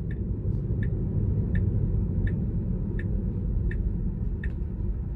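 Tesla turn-signal indicator ticking steadily, about three ticks every two seconds, over a low steady rumble inside the car's cabin.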